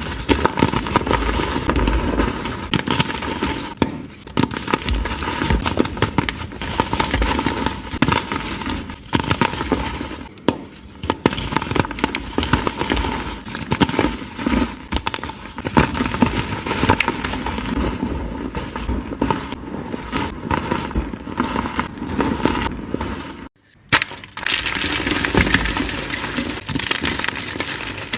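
Dyed, reformed gym chalk blocks being crumbled: a dense run of crunching and crackling. The sound cuts out briefly about 23 seconds in, then the crunching resumes.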